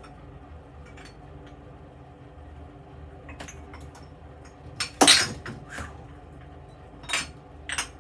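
Glass aftershave bottles clinking and knocking as they are handled and set down, a few separate clinks with the loudest about five seconds in.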